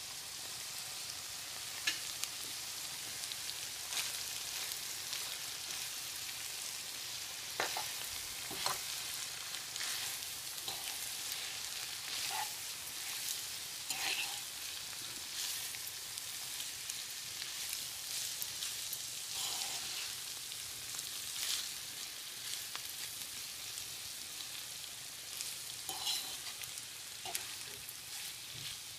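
Crab spaghetti with vegetables sizzling steadily as it is stir-fried in a cast-iron skillet, with occasional clicks and scrapes as the noodles are tossed and stirred in the pan.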